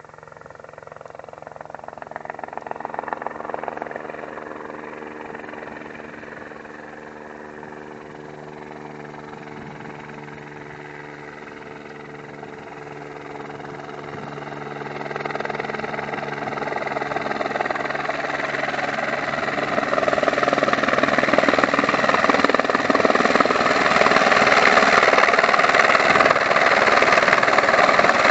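Helicopter flying with a steady, pulsing rotor sound, a brief swell about three seconds in, then growing steadily louder from about halfway through to its loudest near the end.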